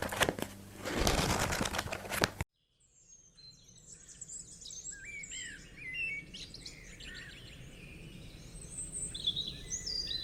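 Background music stops abruptly about two seconds in. Then small birds chirp and twitter, many short sliding calls overlapping, over faint outdoor ambience.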